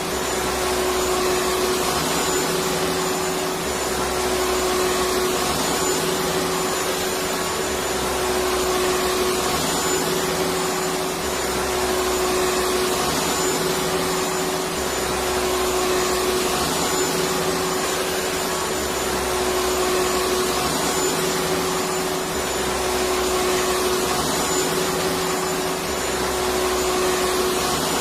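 Vacuum cleaner running steadily: an even motor whir with a constant hum, and a faint low pulsing that repeats about every three and a half seconds.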